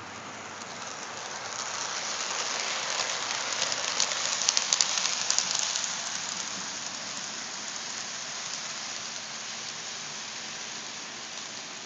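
HO scale model train running on the layout track: a steady hiss of wheels and motor that grows louder for a few seconds as the train passes close, with a cluster of sharp clicks about four to five seconds in, then settles to a lower hiss.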